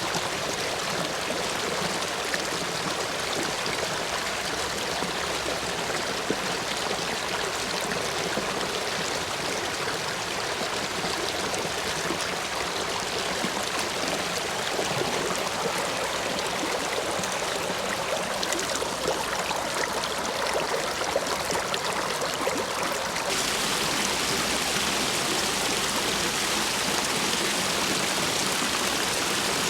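Stream water rushing steadily over and between stepping stones, running full after heavy rain. About 23 seconds in, the rush turns suddenly brighter and hissier.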